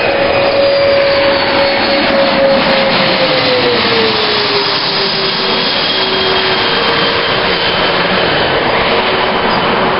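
Jet airliner's engines going past: a loud, steady rushing noise with a whine that drops in pitch about four seconds in as the aircraft passes.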